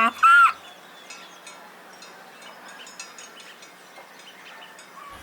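A donkey's bray ends about half a second in. A quiet farmyard background follows, with faint short bird chirps.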